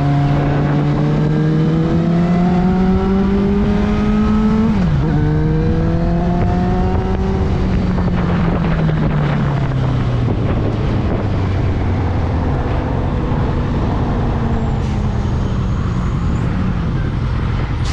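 Motorcycle engine, the channel's Suzuki GSX650F, running under way: it rises in pitch as it pulls, drops sharply about five seconds in with an upshift, climbs again, then eases off and settles at a lower, steadier pitch. A steady rush of wind and road noise runs underneath.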